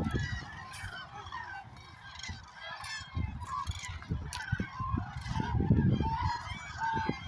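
A large flock of common cranes calling, many trumpeting calls overlapping continuously, over a low, irregular rumble.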